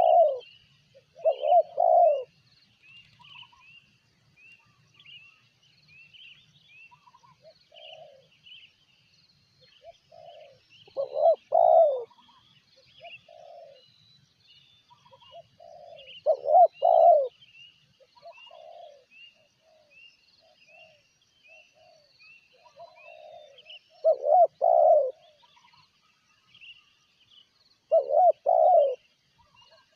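Spotted doves cooing in short phrases of two or three low coos, repeated every several seconds, with fainter coos between. Small birds chirp continuously higher up.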